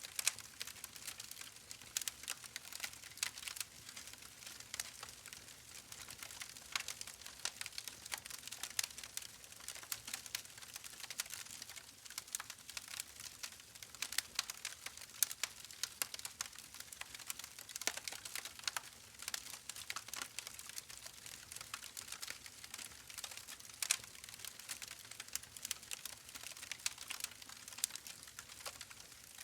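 Continuous soft crackling: a dense, irregular scatter of small clicks and pops with no steady rhythm, from a background ambience track.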